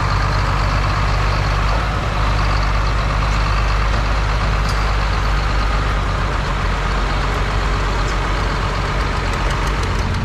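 Antique tractor engine running hard and steady under load at a tractor pull.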